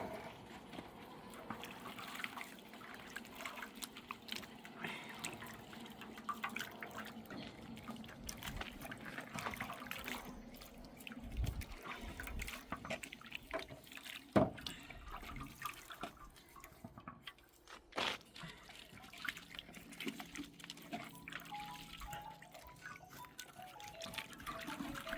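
Faint dripping, trickling wet sounds with scattered small ticks, and two sharp knocks about fourteen and eighteen seconds in.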